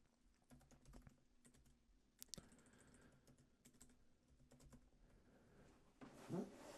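Faint computer keyboard typing and clicking, scattered light keystrokes over near silence, with a brief faint rising sound near the end.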